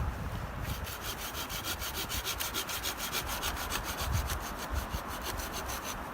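Hand saw cutting through a wooden branch with quick, even back-and-forth strokes, sawing stock for wooden tent pegs. The strokes start about a second in and stop near the end, over a low rumble of wind.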